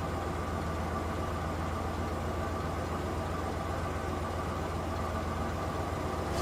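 Steady low hum of an idling engine, even in level throughout.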